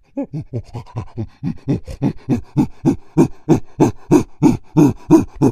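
Monkey calling: a fast run of panting hoots, about three a second, growing louder and rising in pitch.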